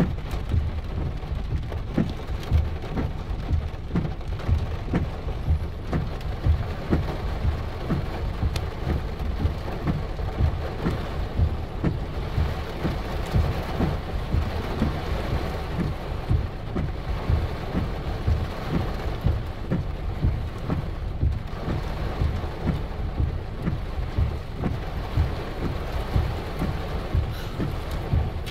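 Heavy rain drumming on a vehicle's roof and windshield, a steady downpour with dense, irregular hard drop impacts several times a second.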